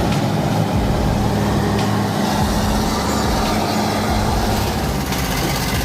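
Heavy vehicle engine running steadily with a constant low drone, the sound of a recovery pull of a timber truck stuck in soft ground.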